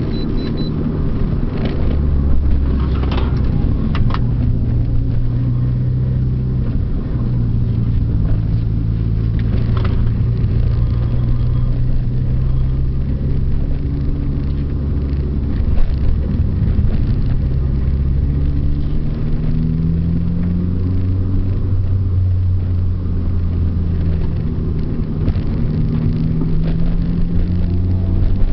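Mitsubishi Lancer Evolution IV's turbocharged 2.0-litre four-cylinder engine driven hard around a circuit: the engine note climbs under acceleration and drops back with gear changes and lifting off, again and again.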